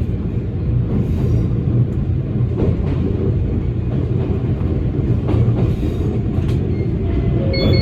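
Toyama Chihō Railway electric train running along the track: a steady low rumble of wheels and running gear, with a few faint clicks now and then.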